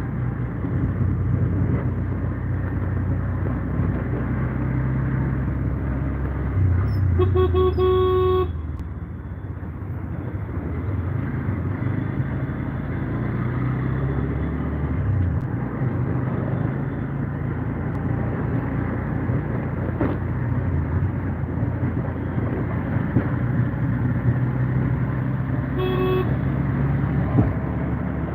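Vehicle engine running steadily, with a horn sounding once for about a second and a half about a quarter of the way in, and a short toot near the end.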